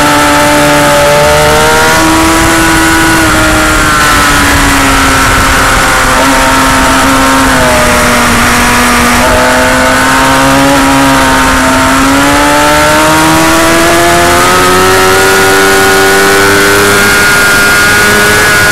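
Motorcycle engine at speed with heavy wind rush on the microphone. The engine pitch falls through the middle as the bike slows, with a couple of quick pitch steps, then climbs steadily near the end as it accelerates.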